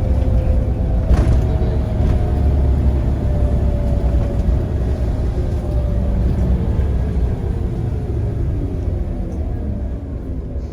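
Scania CN94UA bus running: a heavy low rumble with a drivetrain whine that glides slowly down in pitch as the bus slows, and a single knock about a second in.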